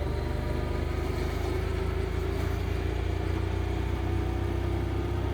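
Motorcycle engine running steadily at low, even revs.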